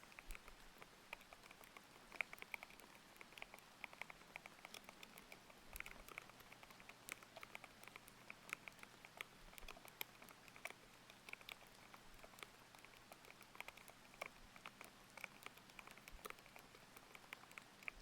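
Quiet, thocky typing on a mechanical keyboard with Aqua King linear switches: many quick keystrokes in an irregular run, over a steady hiss of layered rain.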